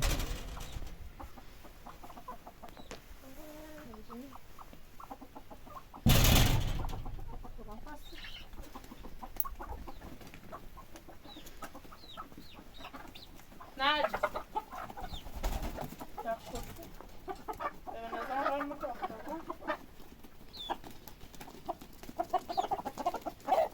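Domestic chickens clucking on and off, in short pitched calls. A loud, sudden burst of noise about six seconds in fades away over about a second.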